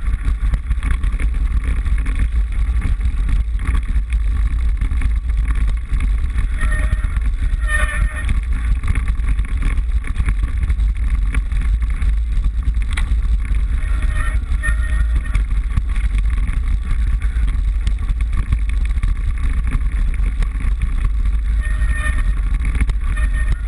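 Wind rush and rattling vibration of a mountain bike being ridden, picked up by a GoPro HD Hero 960 mounted on the handlebar: a loud, steady, rough low rumble.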